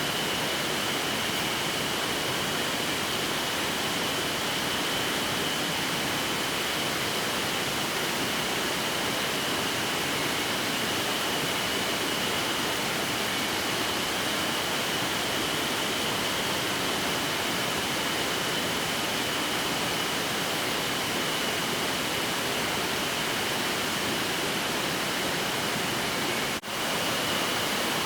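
Mountain headwater stream rushing steadily, a dense, even hiss of running water, broken once by a momentary drop near the end.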